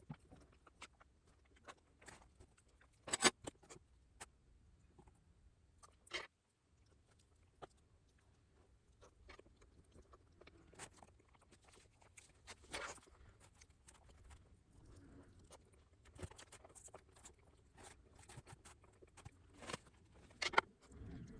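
Close-miked eating sounds: chewing with scattered crisp bites and crunches, the loudest about three seconds in and near the end.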